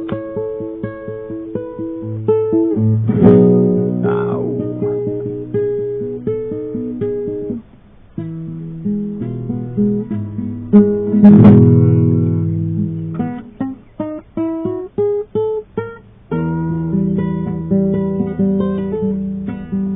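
Acoustic guitar played with picked notes and chords. There are two hard strums, about three and eleven seconds in, and a short break just before eight seconds. Around fifteen seconds comes a run of short, stopped chords.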